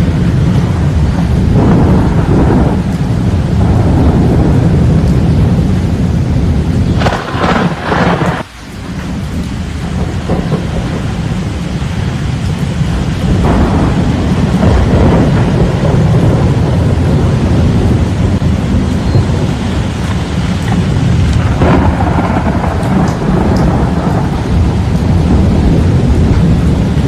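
Thunderstorm with strong wind and rain: a loud, continuous low rumble that briefly drops away about eight seconds in.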